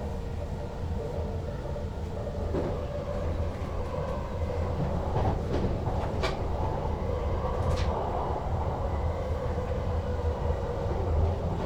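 NS Sprinter Lighttrain (SLT) electric train running on the track, heard from inside the driver's cab: a steady low rumble that slowly grows louder, with a few sharp clicks from the wheels and track.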